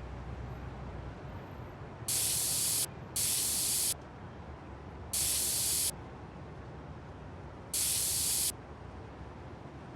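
Four short bursts of hissing spray, each about three-quarters of a second long and starting and stopping sharply, over a steady low rumble.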